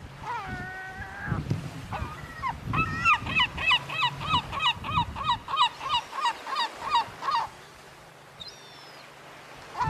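A large water bird calling: a long drawn call first, then a quick run of about a dozen short calls, about two a second, over a faint steady hiss. One short, higher call comes near the end.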